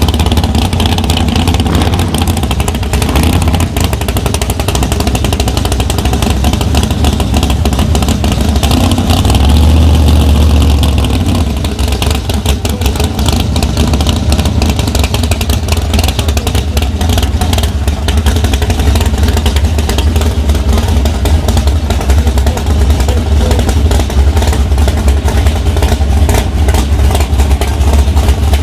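Loud drag-racing engine running with open exhaust, deep and rumbling, swelling louder for a moment about nine seconds in, then settling into a choppy, rapid-firing idle.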